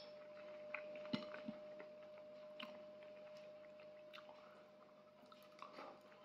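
A person chewing food, with faint mouth sounds and a few short sharp clicks, the loudest a little over a second in. A faint steady hum runs underneath.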